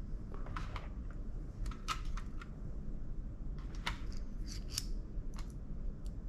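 Irregular light clicks and taps of small laptop parts being handled, about a dozen, some with a brief high ring, over a low steady hum.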